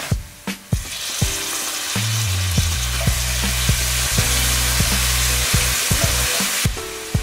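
Sliced onion, garlic and diced tomato sizzling in a stainless-steel sauté pan as they are stirred with a wooden spoon, with a background music bass line underneath. The sizzling cuts off abruptly near the end.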